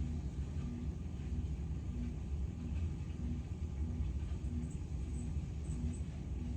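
Steady low mechanical hum with a faint tone pulsing on and off a little under twice a second.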